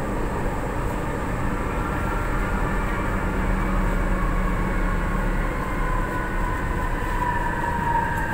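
Interior running noise of an MRT-3 light-rail train car: a steady rumble and hum. From about three seconds in, an electric whine slides down in pitch as the train slows toward a station.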